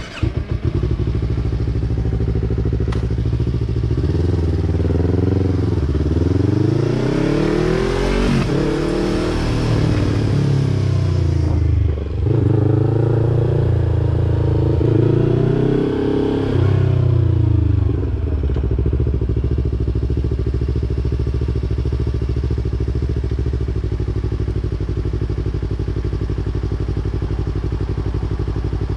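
2020 Yamaha YZF-R3's parallel-twin engine through a Yoshimura exhaust, firing up right at the start and running. It is revved up and down several times in the middle, with a short drop near halfway, then settles back to a steady even note.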